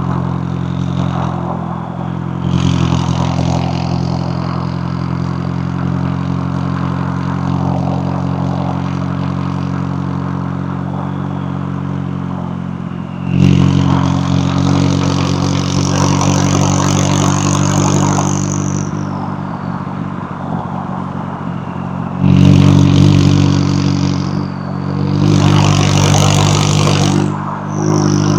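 McLaren 570S twin-turbo V8 running on the move, a steady drone that surges louder three times as the throttle is opened, about halfway through and twice near the end. A high whine rises and then falls during the first surge.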